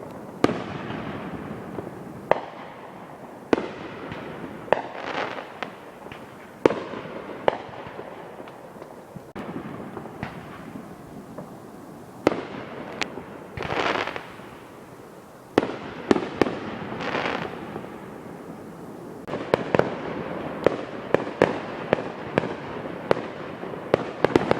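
Fireworks going off: irregular sharp bangs with a few brief hissing swells between them, then a rapid volley of bangs near the end.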